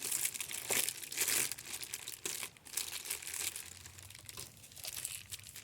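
Packaging crinkling and rustling in irregular bursts as a newly unboxed humidifier is unwrapped and freed from its ties.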